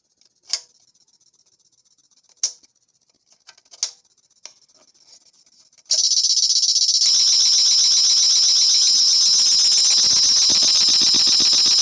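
Bird-X Transonic PRO ultrasonic pest repeller emitting: a few short sharp clicks, then about halfway through a loud, high-pitched, rapidly pulsing sound starts suddenly and holds steady. This is the audible part of the repeller's output on its crawling-insects setting.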